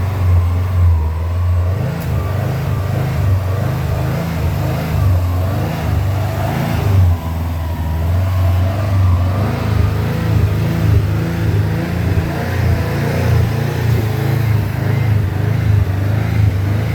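Subaru STI's 2.5-litre turbocharged boxer flat-four running at a fast warm-up idle on a cold night, heard at the exhaust as a steady, uneven low rumble.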